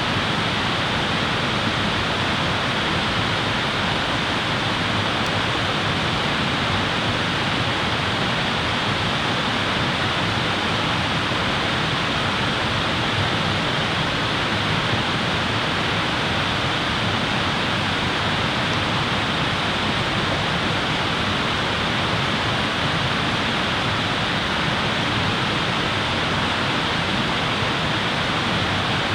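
A steady, even rushing noise like fast-running water, unchanging throughout, with no crackles or separate sounds in it.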